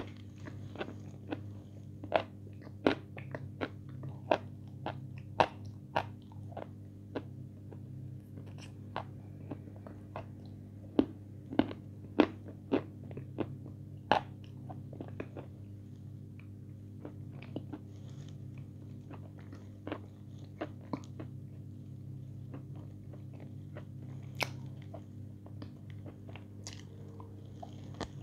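Close-up crunchy biting and chewing of a hard white chunk, a run of sharp crackly crunches that comes in clusters and thins out later, over a low steady hum.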